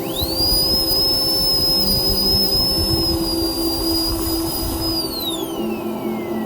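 Dental laboratory rotary handpiece (micromotor) spinning up quickly to a steady high whine, running for about five seconds, then winding down with a slowly falling pitch. Background music plays underneath.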